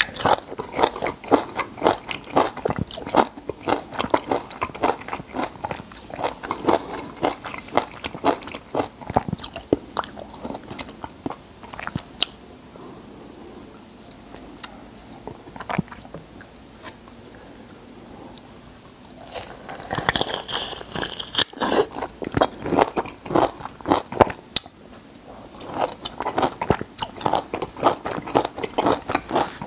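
Close-miked chewing of peeled raw lemon and lime: fast runs of wet crunching and smacking clicks. They ease off in the middle, then a bite with a short hiss comes about twenty seconds in and the chewing picks up again.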